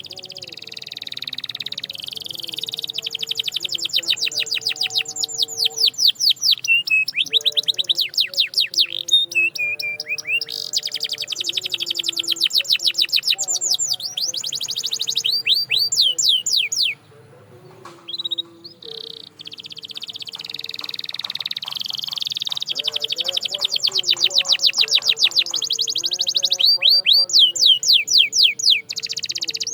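Canary singing: long runs of fast, repeated rising and falling trills. There is a short pause about seventeen seconds in, and faint low held tones sound underneath.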